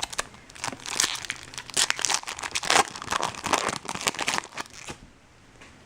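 Wrapper of a 2012 Bowman Chrome trading-card pack being torn open and crinkled: a run of crackling rustles that stops about five seconds in.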